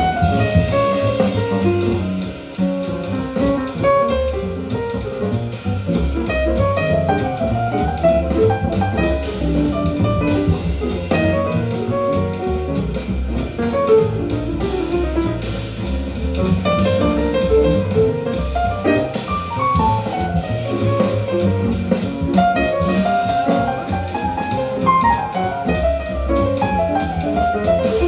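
Small-group jazz with piano, guitar, double bass and drum kit, played back over hi-fi loudspeakers in a room. Quick runs of notes climb and fall over a walking bass and drums.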